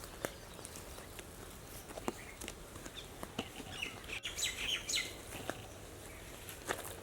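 Wild birds chirping: short, scattered high-pitched calls, busiest about four to five seconds in, with a few faint clicks in between.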